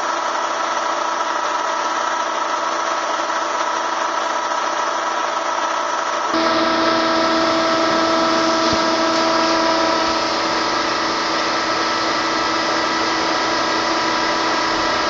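Bee vacuum's motor running steadily with a constant whine. About six seconds in, the sound gets louder and deeper.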